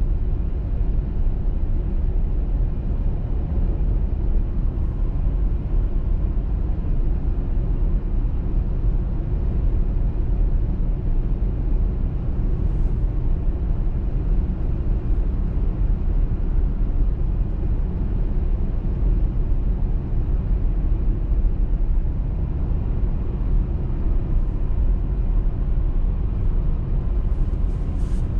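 Car driving at steady speed on a motorway in winter: constant low rumble of tyre and road noise mixed with engine hum.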